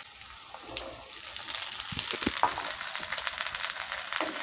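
Boiled chickpeas hitting hot oil in a frying pan with fried potatoes and pointed gourd: a crackling sizzle that starts up and grows louder about a second in, with a few soft knocks and a spatula stirring.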